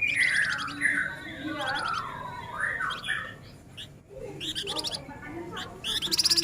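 Male flamboyan songbird singing a dense, rapid chattering song of swooping falling notes and quick trills, with a loud fast trill near the end.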